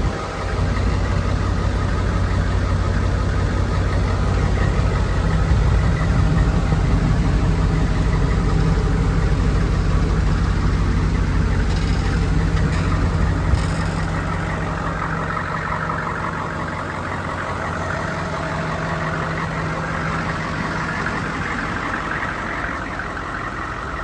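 HMMWV's 6.5-litre turbo-diesel V8 idling steadily, a little quieter in the second half.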